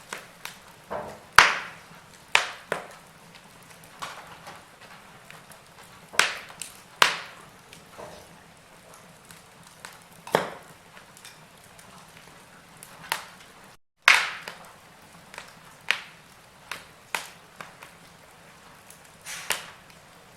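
Log fire crackling: irregular sharp pops and snaps of varying loudness over a low steady hiss, with a split-second gap in the sound about fourteen seconds in.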